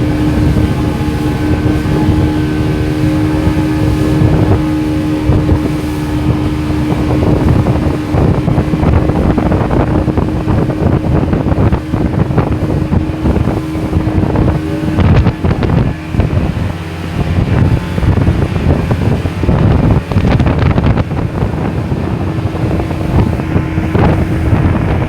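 Motorboat engine running with a steady hum, under heavy wind buffeting the microphone. The engine hum sinks beneath the wind about halfway through and comes back near the end.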